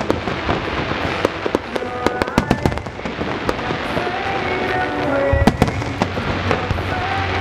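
Aerial fireworks display going off: a dense series of sharp bangs and pops, many in quick succession, over a low rumble.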